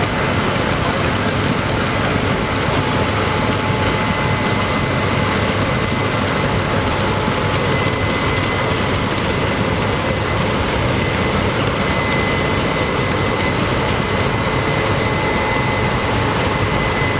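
Combine harvester running steadily in a corn field, a loud even machine noise with a faint high steady whine.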